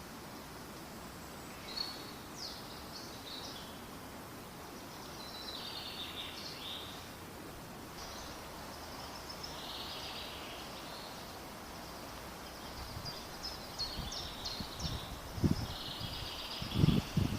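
Birds chirping and trilling in short repeated calls over steady background noise. In the last couple of seconds a few louder low rustling bumps come in.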